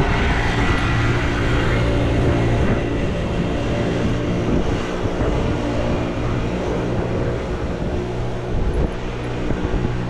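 A nearby engine running steadily with a low, even hum, over a constant rush of street or traffic noise.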